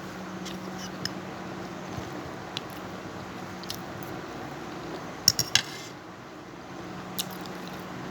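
Scattered clicks and clinks of eating utensils against dishes, loudest in a quick cluster of three about five and a half seconds in, over a steady low hum.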